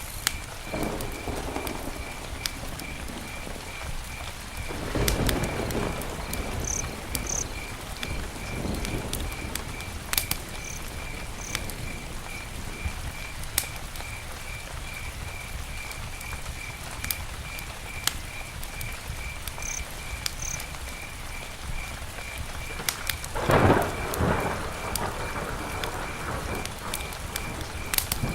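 Campfire crackling, with many sharp pops and a steady hiss, and two low rumbling surges, one about five seconds in and a louder one near the end. A faint chirp repeats evenly about twice a second.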